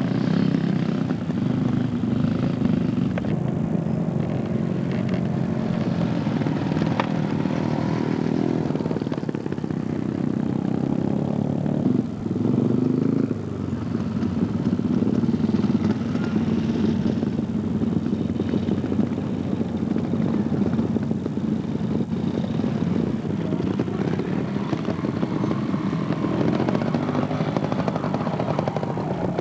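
Steady low rumble of a motor vehicle's engine running, with a brief dip about twelve seconds in.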